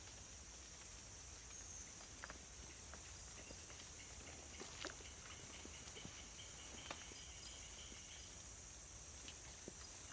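Steady high-pitched drone of forest insects after rain, with a few light clicks and ticks scattered through it.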